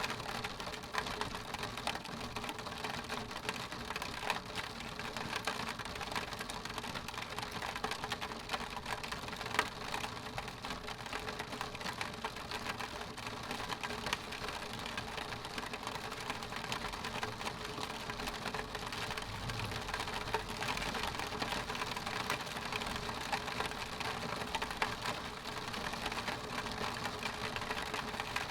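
Raindrops tapping on window glass: a dense, even patter of many small ticks, holding at the same level throughout.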